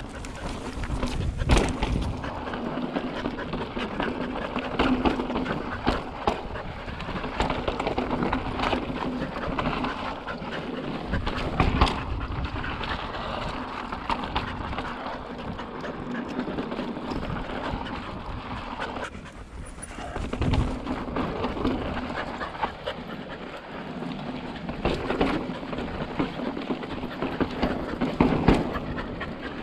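170 mm-travel enduro mountain bike rolling over slickrock: continuous tyre and chassis rattle, with several deep thumps as it drops off ledges.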